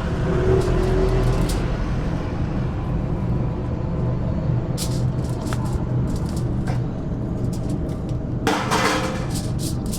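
A steady low machine hum, with a few sharp clicks and a short rushing noise about eight and a half seconds in.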